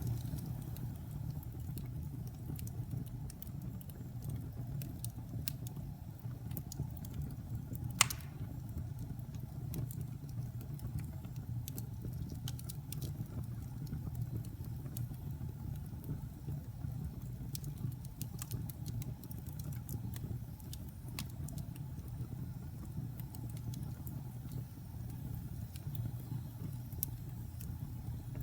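Wood fire burning in a fireplace: a steady low rumble of flames with scattered sharp crackles, and one loud pop about eight seconds in.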